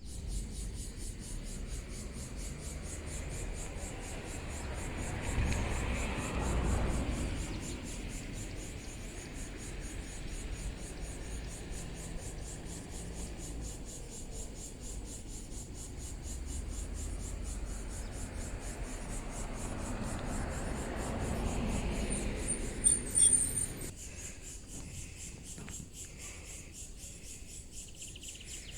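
Crickets chirping in a fast, steady pulse, with a low rushing noise that swells and fades twice and a brief high chirp near the end.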